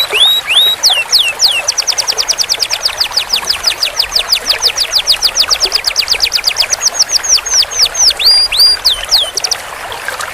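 Domestic canary singing a long rolling trill: quick down-slurred whistled notes repeated about ten times a second for several seconds, opened by a few slower swooping notes and ending with a handful of slower slurs.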